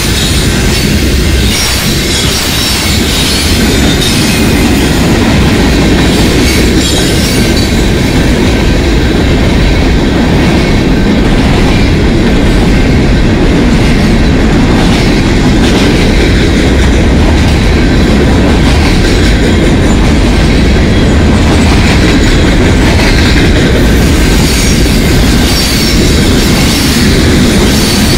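Freight cars (covered hoppers, open hoppers and tank cars) rolling past close by, a steady loud rumble and clatter of steel wheels on the rails.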